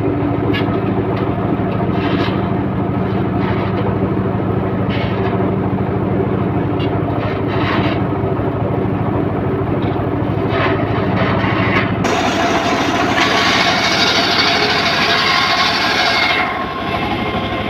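Homemade engine-driven circular saw rig running steadily. About two-thirds of the way in the sound changes and a harsh, hissing cutting noise rises as the blade goes through the wood for about four seconds, then eases near the end.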